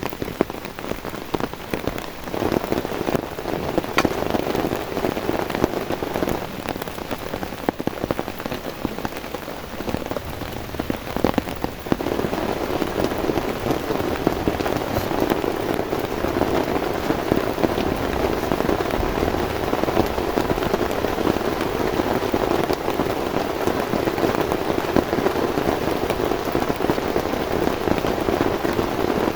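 Heavy rain falling on a tent, a dense patter of drops that grows louder about twelve seconds in.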